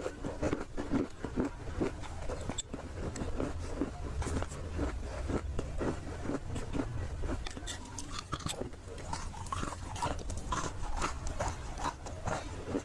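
A person biting and chewing dry roasted Nakumatt clay (edible clay), a run of crisp crunches several times a second.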